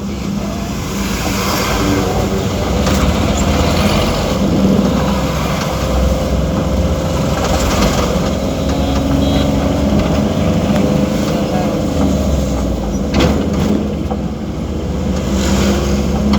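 Heavy trucks' diesel engines running in slow traffic, a steady low rumble, with a few short hisses about two, eight and fifteen seconds in.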